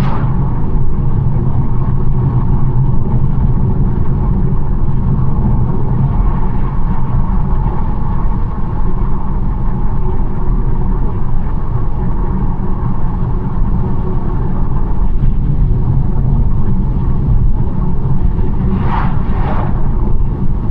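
BMW 1 Series driving along a country road: a steady low rumble of engine and tyre noise, with two short whooshes near the end.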